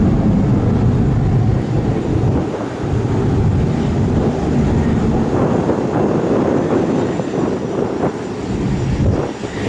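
Airliner engines running at high power close by, a loud, continuous, crackling rumble with wind buffeting the microphone.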